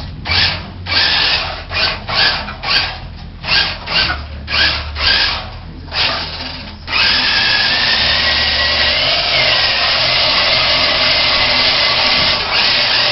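Remote control truck's motor revving in short throttle bursts, about two a second, then running steadily with a high whine from about seven seconds in.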